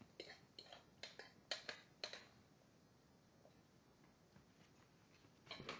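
Near silence with a handful of faint clicks and taps in the first two seconds, then a short soft rustle just before the end.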